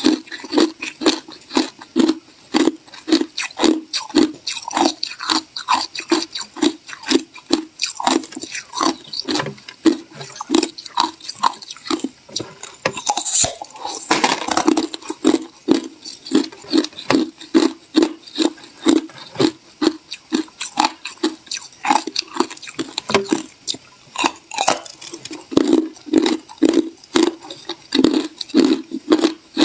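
Ice being chewed: a steady run of crunches, about three a second, with a sharper, louder crack about halfway through as a fresh piece is bitten.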